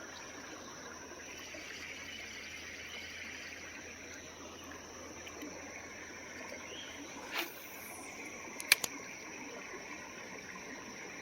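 Small creek trickling and running steadily. About seven and a half seconds in there is a brief swish, and just after it a sharp double click, the loudest sound.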